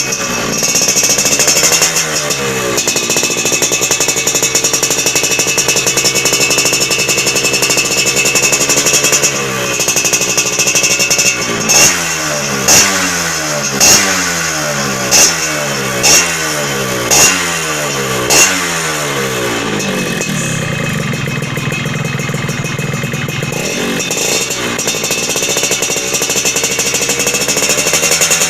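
Yamaha F1ZR two-stroke single-cylinder engine running through a racing exhaust and being revved. It holds at raised revs for several seconds, then gets seven quick throttle blips about a second apart, then drops back to a lower, steady running speed.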